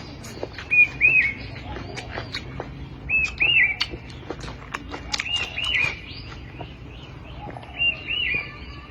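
A bird calling outdoors, repeating the same short chirped phrase, a quick note followed by two arched notes, four times at about two-and-a-half-second intervals. Scattered sharp clicks fall between the calls.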